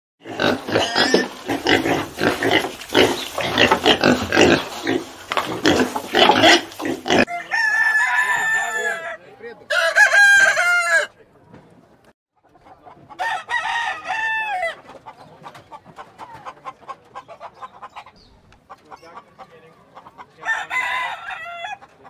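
A pen of piglets squealing and grunting for about the first seven seconds. Then a rooster crows four times, with fainter clucking between the crows.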